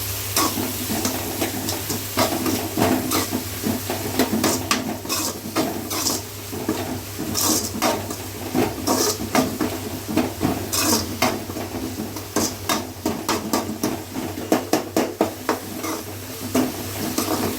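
Chopped onions and green chillies sautéing in hot oil in a pan, sizzling, while a spoon stirs them with frequent scraping clicks and knocks against the pan. A steady low hum runs underneath.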